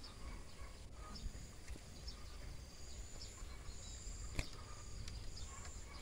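Small birds chirping: scattered short, high chirps and a couple of thin, drawn-out high whistles around three and four seconds in, over a low wind-like rumble. A single sharp click sounds about four seconds in.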